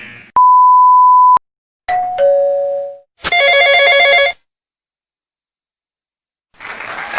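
A string of separate sound effects: a steady, single-pitched beep about a second long, like a censor bleep; then a two-note doorbell ding-dong, high then low; then about a second of buzzy electronic ringing. After a pause of about two seconds, applause starts near the end.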